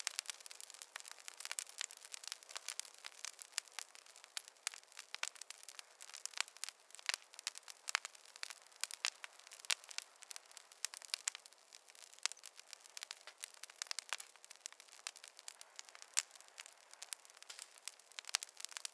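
Wood fire crackling: a dense, irregular run of sharp pops and snaps from burning logs over a faint hiss, light and high with no low rumble.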